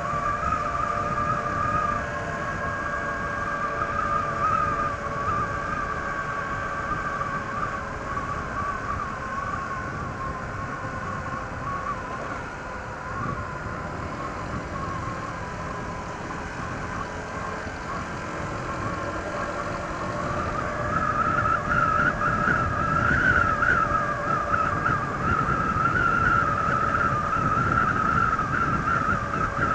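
Honda ADV 160 scooter's single-cylinder engine running under way on its stock exhaust, with a steady wavering whine over road and wind rumble. It gets louder about two-thirds of the way through.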